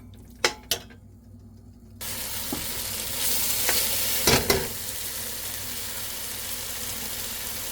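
A few light utensil clinks, then about two seconds in a steady sizzle starts suddenly: ground beef frying in a hot pan. A spatula knocks and scrapes in the pan a little later while it sizzles.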